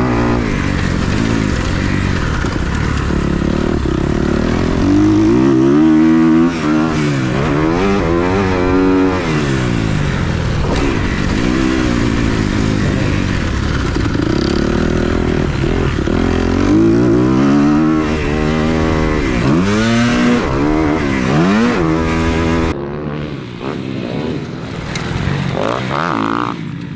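Dirt bike engine ridden hard around a motocross track, its pitch climbing and falling again and again as the rider accelerates and shifts. About 23 seconds in it drops to a lower, quieter running as the bike slows.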